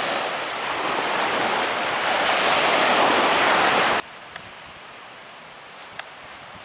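Loud rushing noise of water and wind that cuts off abruptly about four seconds in. It gives way to quieter, steady surf and wind with a few faint clicks.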